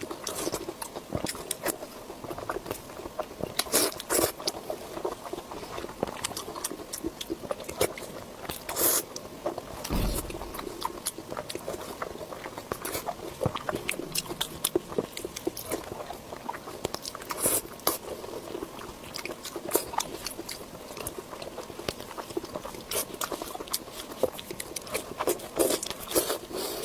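Close-miked eating: repeated crunching bites and chewing of crisp food, with sharp crackles throughout and a low thump about ten seconds in.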